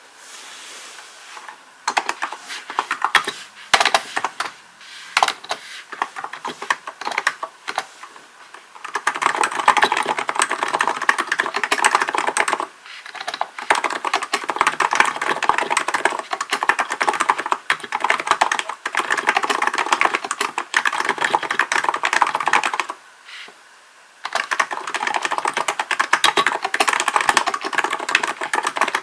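Typing on a Hansung GK898B electro-capacitive (Topre-style) keyboard. A couple of seconds in, scattered keystrokes begin; after that comes fast, continuous typing, broken by a pause of about a second near the end.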